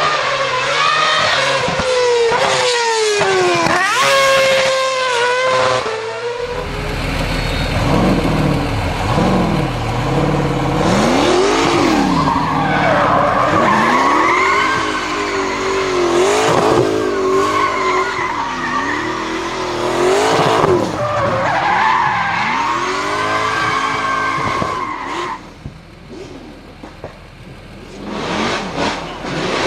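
A race car drifting: its engine revs up and down again and again while the tyres squeal. The car grows quieter briefly near the end, then loud again.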